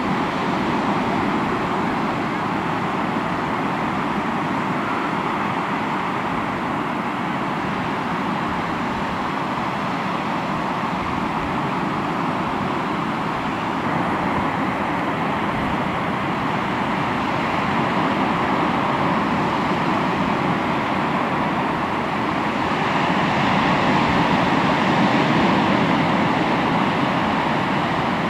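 Sea waves washing onto the shore in a continuous rush, swelling louder for a few seconds about two-thirds of the way through.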